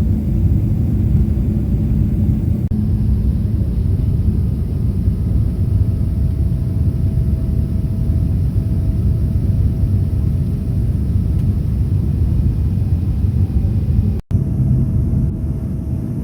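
Boeing 777-300ER aircraft noise heard from inside the cabin: a loud, steady low rumble of the GE90 engines and airflow, broken by edit cuts about three seconds in and near the end.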